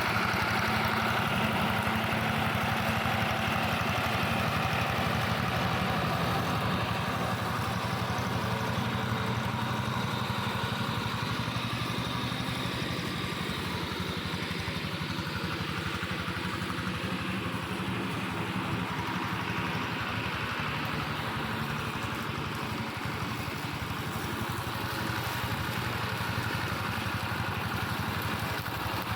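Engine of a modified plough tractor rigged as a brush mower, running steadily.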